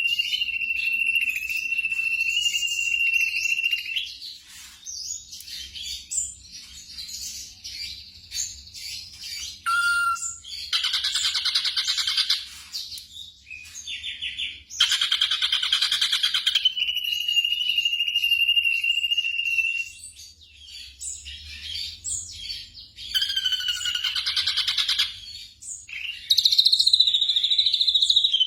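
Recorded black drongo song: bouts of rapid, harsh chattering calls several times over, between spells of a steady high whistle-like tone that holds for a few seconds.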